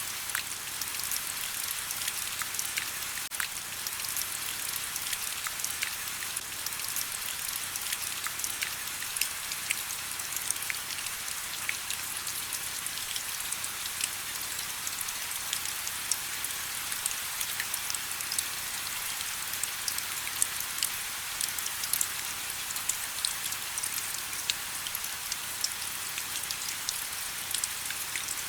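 Steady rain: an even, mostly high-pitched hiss dotted with many sharp ticks of single drops.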